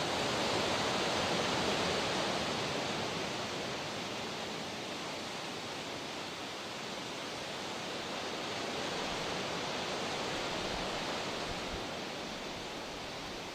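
Steady rush of water that swells and eases slowly, loudest at the start, dipping past the middle, then building again.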